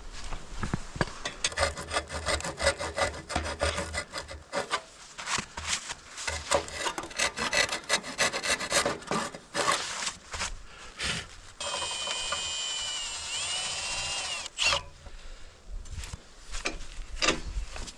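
Rapid back-and-forth rasping strokes of a hand saw cutting wood. About twelve seconds in, a cordless drill runs for about three seconds, its pitch dipping and rising before it stops. Then the sawing strokes start again.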